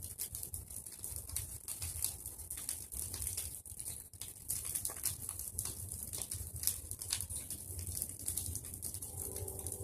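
Bonfire of pruned tree branches crackling, with many irregular sharp pops and snaps over a steady low rumble.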